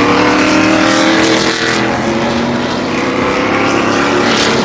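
A field of NASCAR Cup stock cars running at speed, several V8 engines heard at once at a steady loud drone, their pitches sliding slightly down as they go past.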